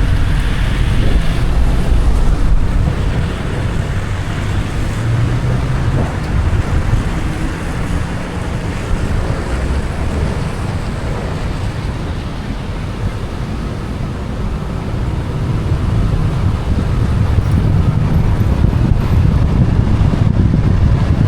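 Car driving: steady road noise with low, uneven wind rumble on the microphone.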